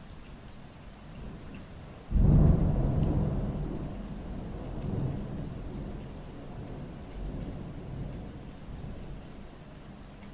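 Rain falling steadily, with a sudden loud clap of thunder about two seconds in that rumbles and slowly fades over the next several seconds, swelling again faintly a few times.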